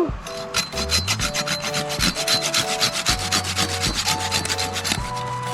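Rapid, rhythmic rubbing or scraping strokes, about eight to ten a second, easing off after about three and a half seconds, with faint melodic notes underneath.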